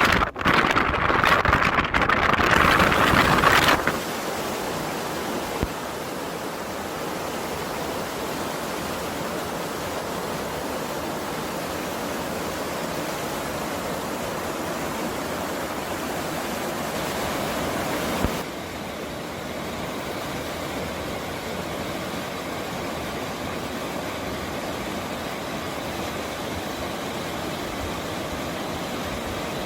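Strong gusts of wind buffeting the microphone for the first few seconds, then the steady rush of a mountain stream. The tone of the rushing changes abruptly about 18 seconds in.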